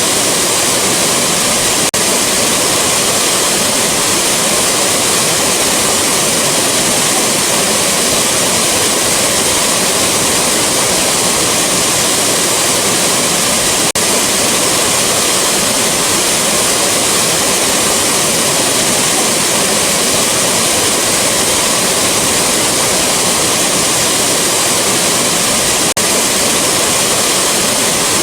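Rushing waterfall: a loud, steady roar of falling water, with a faint tick about every twelve seconds where the recording loops.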